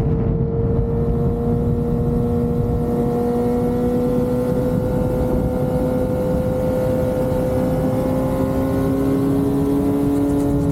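Motorcycle engine running at highway speed under heavy wind and road rumble, its pitch climbing slowly and steadily as it gently gains speed.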